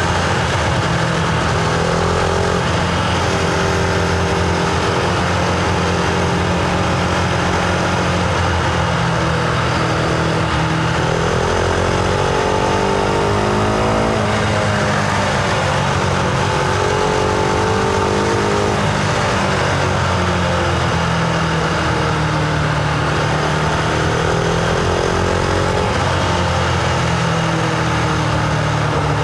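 Husqvarna Vitpilen 701's single-cylinder engine running under way, heard from the bike. The engine pitch climbs and falls back several times as the bike speeds up and slows, with the clearest climb a little before the middle.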